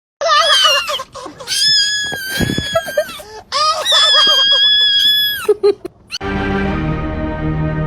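High-pitched screaming voice from a meme sound clip: a few short wavering cries, then two long held screams. About six seconds in it gives way to music.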